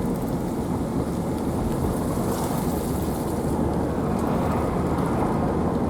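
Steady low rumble of a car driving in a windstorm, with wind and road noise heard from inside the car.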